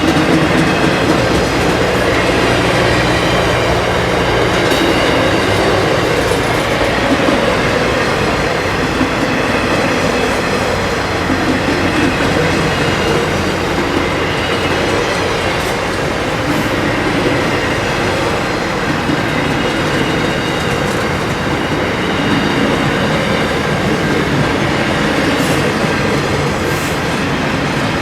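Freight train wagons rolling past close by, a steady loud rumble of steel wheels on rail with clickety-clack from the wheels over the track.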